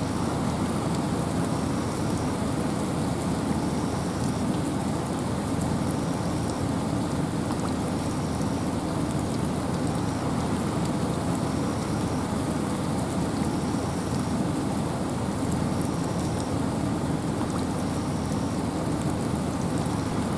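Steady rain and wind in a forest: an even, dense rush, heaviest in the low range, with fine patter of drops above it. A faint high note repeats about every two seconds.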